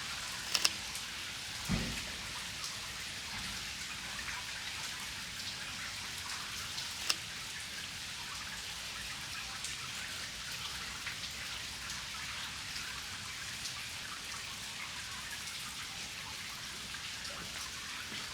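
Steady rain falling, with many single drops ticking close by and a few louder drop clicks. A dull low thump comes about two seconds in.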